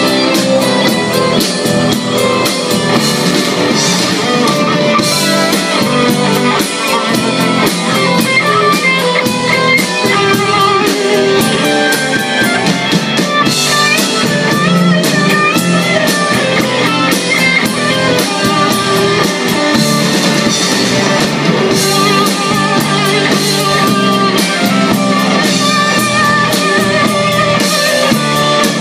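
Live rock band playing an instrumental passage, with electric guitars over a steady drum kit beat.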